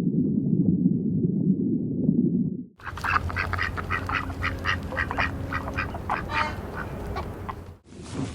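A low, noisy rumble that cuts off suddenly, followed by many short, rapid, overlapping calls from a flock of birds.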